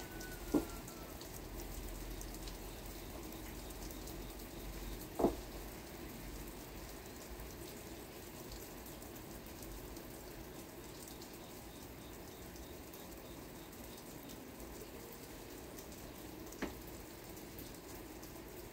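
Steady light rain, with three single louder drops landing sharply: near the start, about five seconds in, and near the end.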